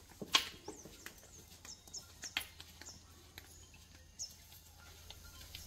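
Birds giving short, high chirps repeatedly, with a sharp click about a third of a second in.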